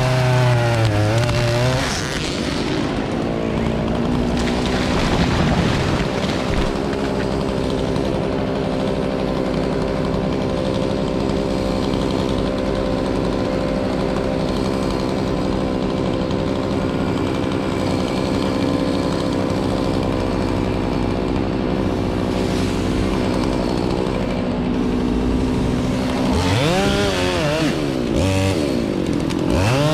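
Chainsaw engine revving near the start and again near the end, with a steady engine drone in between.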